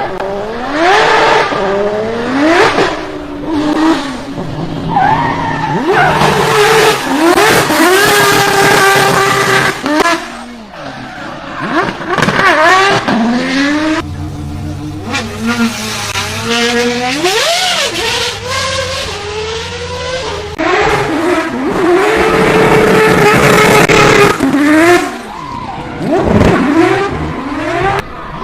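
Race car engine driven hard, its pitch climbing and falling back over and over through gear changes and lifts off the throttle.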